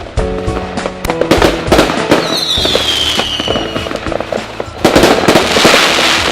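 Fireworks going off in a display: repeated bangs and crackling, a whistle falling in pitch about two seconds in, and a loud crackling burst near the end, over background music.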